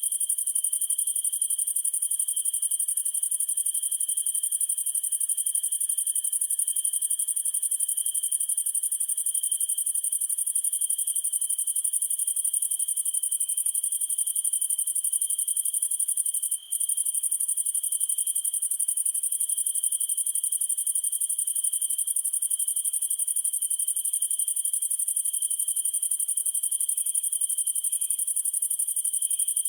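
A dense chorus of crickets trilling without pause on two pitches, one very high and one lower. The sound cuts out for an instant about halfway through.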